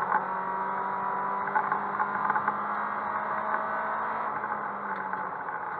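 Citroën Saxo N2 rally car's four-cylinder engine, heard from inside the stripped cabin, pulling at a steady pitch along a straight and easing slightly near the end, with road and cabin noise underneath.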